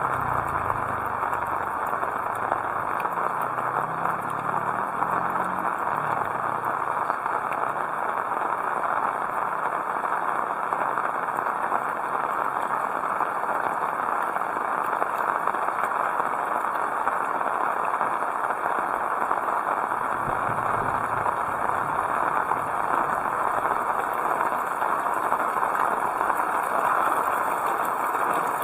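Heavy rain falling steadily, a dense, even hiss. A low engine hum fades out over the first few seconds.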